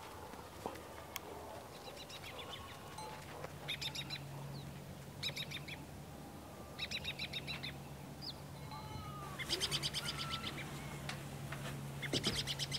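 Birds chirping in short bursts of rapid chattering notes, five or so spread through the time, over a faint low steady hum.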